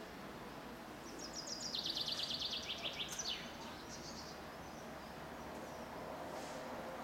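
A songbird singing one phrase about a second in. It is a fast trill of short, high notes that steps down in pitch and ends with a quick downward sweep. A steady faint background hum runs underneath.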